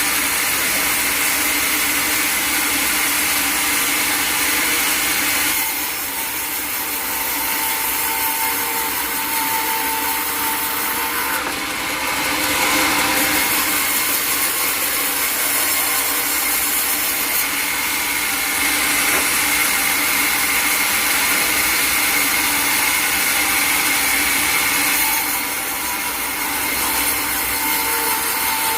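Sawmill saw running and cutting through a log: a steady loud machine noise with a constant whine, easing off briefly twice as the load on the blade changes.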